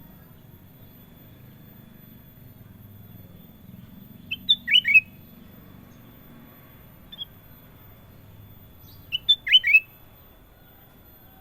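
Kutilang emas, a bulbul, calling twice in short bursts of about four quick notes, each note falling in pitch, with a single short note between the two bursts.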